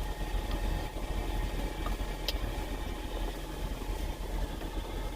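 Semi truck's diesel engine idling steadily, heard inside the cab, with a single light click about two seconds in.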